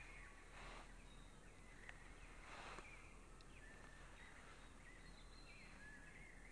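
Faint outdoor ambience with scattered small bird chirps and short warbling calls over a low steady hum. There are two brief soft rustling swells, one just under a second in and one a little before the middle.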